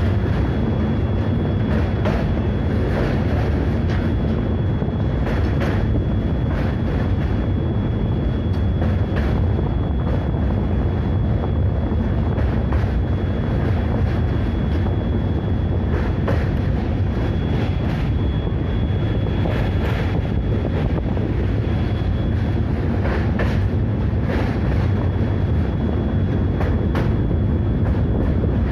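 Train running on rails: a steady loud rumble with frequent irregular clicks from the wheels and track, and a thin high steady whine over it.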